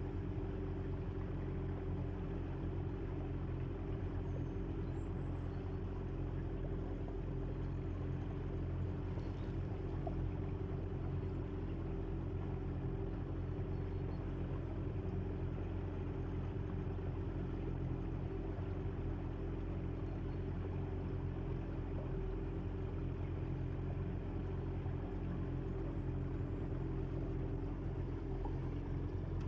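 A boat's motor running at a steady, unchanging speed, with a low drone.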